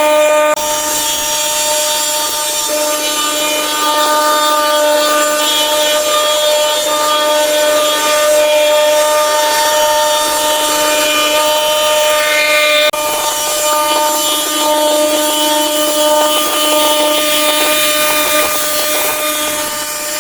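A small motorised power tool runs steadily with a high, even whine, and the sound changes abruptly twice.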